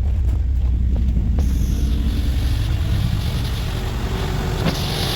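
Mercruiser 454 big-block V8 marine engine idling steadily, just after starting. A steady hiss comes in over the engine about a second and a half in.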